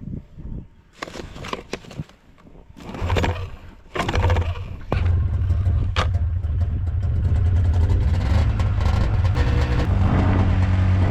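An engine starts about three seconds in, stumbles briefly, and then settles into a steady run. A few clicks and knocks come before it.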